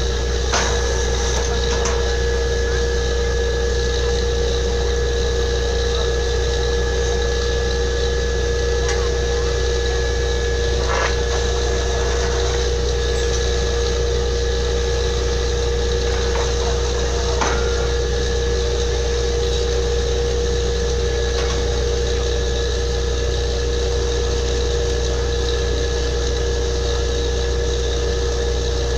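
Borewell drilling rig's engine running steadily with a constant drone and whine, with a few brief knocks over it.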